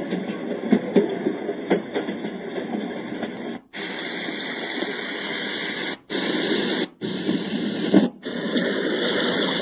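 A FUNYKICH white noise machine plays its soothing noise sounds. A muffled hiss with a few clicks cuts out briefly and is replaced by a brighter, fuller hiss, which drops out briefly three more times as the sounds change.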